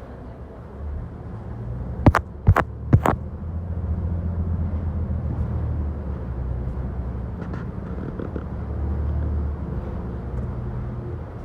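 City bus engine rumbling low and steady, heard from inside the cabin, with three sharp knocks in quick succession about two to three seconds in.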